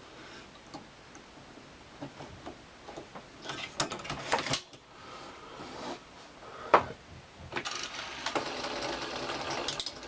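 Small clicks and knocks of hands fitting a trimmed rubber drive belt onto the pulleys of a Panasonic NV366 VHS recorder's mechanism, a sharp click, then from about eight seconds in the machine's small belt-driven mechanism running with a steady fast rattle.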